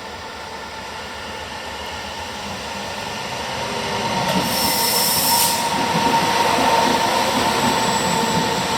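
A train passing through the station without stopping, growing louder over the first four seconds as it approaches, then rumbling past close by on the rails with a thin, steady squeal. There is a brief hiss about four and a half seconds in.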